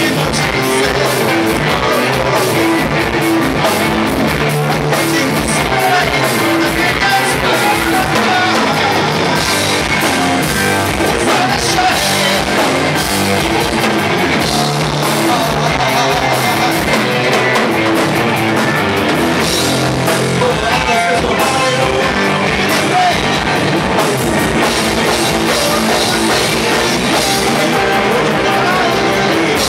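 Rock band playing live, with a drum kit and guitar carrying the song.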